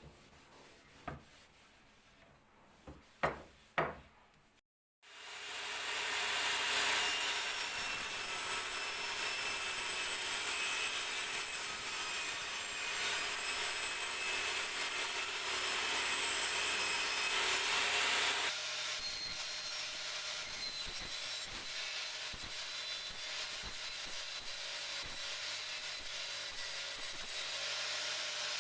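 A few light knocks, then a tool working wood in a steady, continuous rasp with a faint high whine, as in sanding or cutting during the cabinet's restoration. The sound changes character about two-thirds of the way through and carries on.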